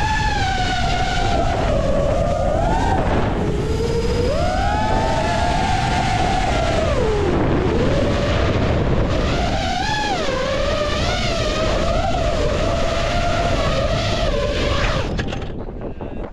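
FPV quadcopter's brushless motors whining, the pitch sliding up and down with the throttle, over heavy wind noise on the microphone. The sound drops away about fifteen seconds in.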